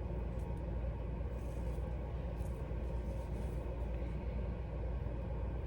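A steady low hum or rumble of background noise, even in level, with no distinct events.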